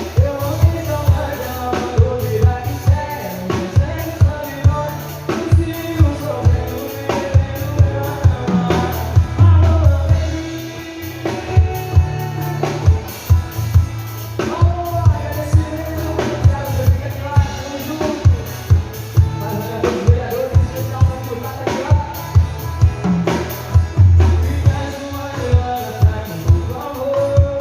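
Sertanejo music with a steady drum-kit beat of about two hits a second, bass, and melodic instruments, with some singing.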